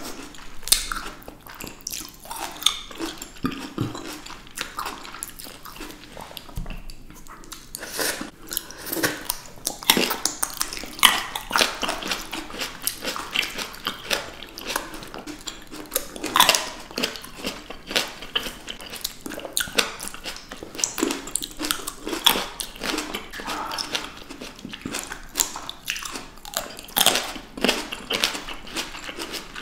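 Close-miked chewing of juicy fresh fruit such as blackberries and grapes: wet, irregular biting, squishing and smacking mouth sounds.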